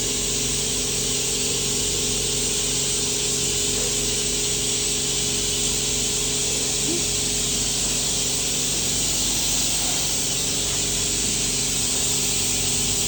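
Welding arc hissing steadily and unbroken, over a steady electrical hum.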